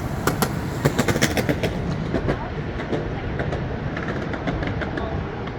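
Truckee River in high flow, rushing water making a loud, steady roar, with a run of sharp clicks in the first second or so.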